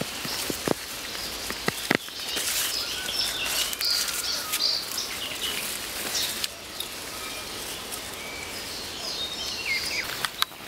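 Several birds chirping and calling over a steady outdoor hiss, with a few sharp clicks near the start.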